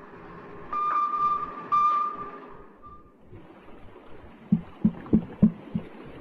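Underwater sonar recording: two sonar pings, each a steady tone lasting about a second, then five quick knocks about a third of a second apart. It is presented as the banging allegedly picked up by sonar during the search for the missing Titan submersible.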